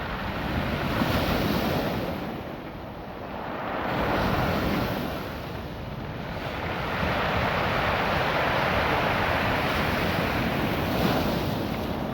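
Ocean surf washing over a beach of small rounded stones, coming in surges: it swells about a second in, eases, swells again around four seconds, then holds strong.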